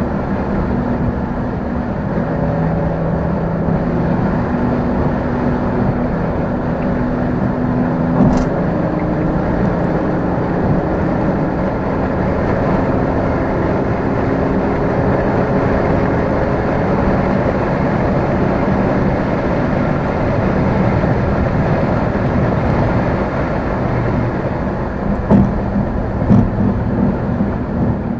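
Car engine and road noise while driving, the engine holding steady notes that shift to new pitches several times as speed changes. There is a click about eight seconds in and a couple of thumps near the end.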